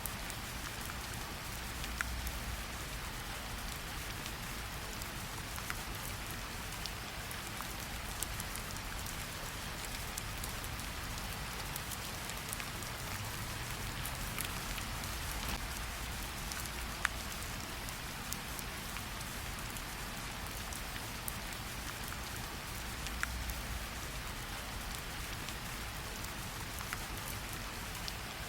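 Steady light rain pattering on tree leaves, with scattered individual drops, a few of them louder single plinks, over a soft low rumble.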